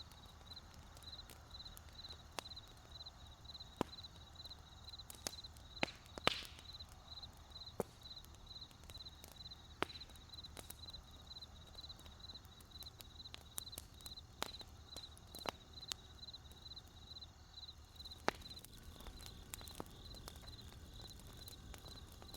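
Wood campfire crackling with scattered sharp pops, the loudest about six seconds in, over a low steady rumble of the flames. Crickets chirp steadily in a high, evenly pulsed trill throughout.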